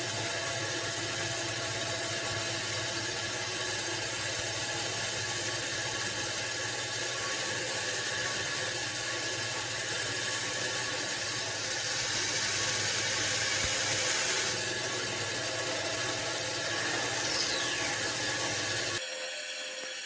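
A power tool running steadily as it works wood. It grows louder and brighter for a couple of seconds past the middle, and the low hum cuts out suddenly near the end.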